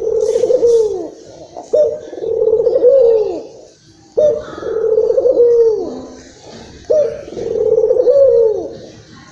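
Local Indonesian puter dove (barbary dove) cooing in a worked-up, repeated display call. Each phrase is about two seconds of rolling coo that begins sharply and ends in drooping notes, and phrases come roughly every two and a half seconds, three of them starting in turn.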